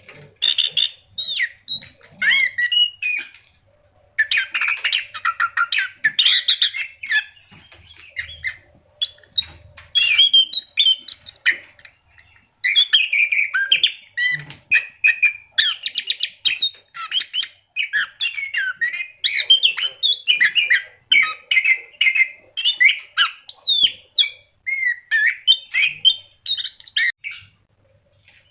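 Orange-headed thrush (anis kembang) in full, persistent song: a long, nearly unbroken run of quick, varied whistled and chattering phrases, with brief pauses about four seconds in and near the end.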